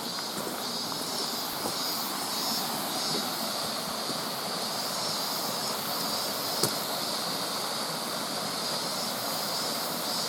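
Mountain stream running steadily, with a steady high hiss above it and a single sharp click about two-thirds of the way through.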